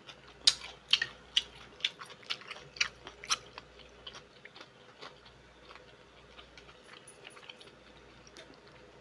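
A person chewing seafood-boil food with mouth smacks and wet clicks, about two a second for the first three and a half seconds, then fainter and further apart.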